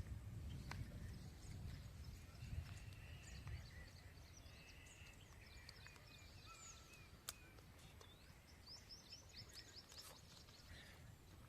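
Faint background birdsong: scattered chirps and short runs of quick, high repeated notes. Under it is a low rumble that fades after the first few seconds.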